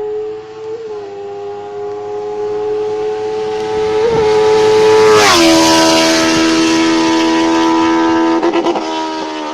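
Benelli TNT 600 inline-four through an SC Project exhaust, held at steady high revs as it passes at speed. The note grows louder, then drops sharply in pitch about five seconds in as the bike goes by, and fades away. Near the end the note flutters briefly.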